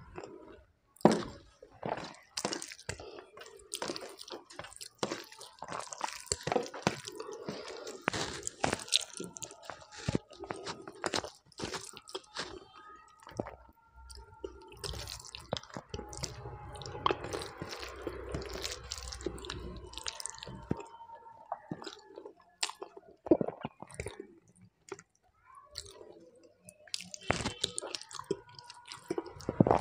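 A person chewing and eating rice with urad dal by hand. Irregular wet mouth sounds, smacks and small clicks are heard, along with squishing as the fingers mix the rice and dal on the plate.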